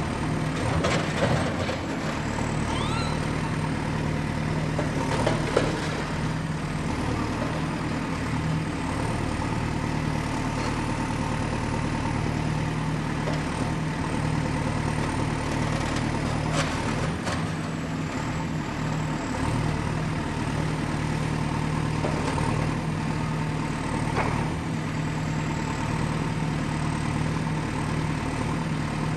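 Excavator's diesel engine running steadily at work, with a few metallic clanks: one about a second in, one around five and a half seconds, and fainter ones later. A thin high whine sits above the engine.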